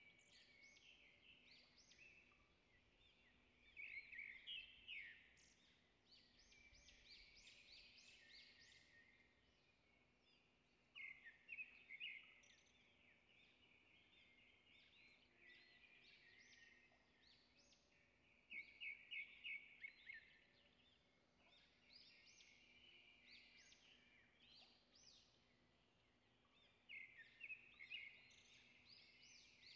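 Faint birdsong: short phrases of quick, high chirps that come back about every seven seconds, over a faint steady low hum.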